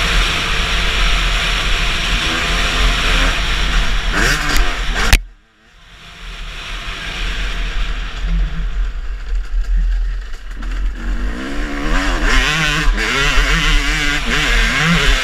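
Motocross bike engine revving up and down under heavy noise. About five seconds in, after a sharp loud peak, the sound drops out almost completely, then builds back over several seconds to engine revving again.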